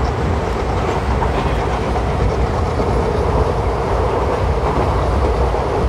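ICF passenger coach running at speed on the track, heard from a window seat: steady wheel-and-rail noise.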